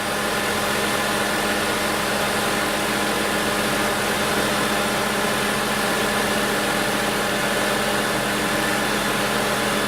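2008 Ford Escape Hybrid running with its air-conditioning pump on: a steady mechanical hum with several constant tones, the A/C system now working after a faulty multi-function switch was bypassed.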